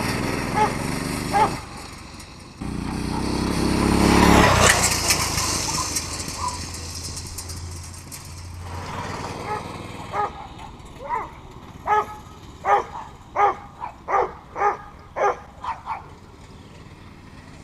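Mini bike's small engine running, dipping briefly, then revving up loudest a few seconds in and fading away. Later a dog barks repeatedly in quick succession.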